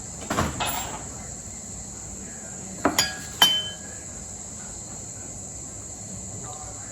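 Steady high-pitched chorus of insects, with a brief rustle near the start and two sharp clinks of dishes around the middle, one briefly ringing.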